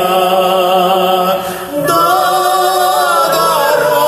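Singing of a Russian folk song over choral backing. A long held note ends with a short dip about one and a half seconds in, then sustained choir voices start a new phrase.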